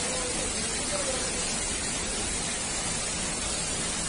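Heavy rain falling steadily as a continuous hiss, with runoff pouring off an awning and splashing into floodwater.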